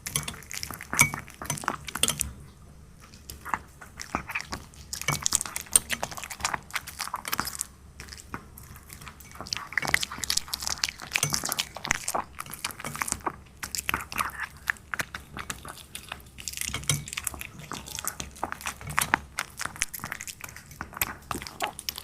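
A puppy chewing and crunching sweet shrimp dipped in egg yolk, with quick, irregular clicks and wet smacks coming in clusters.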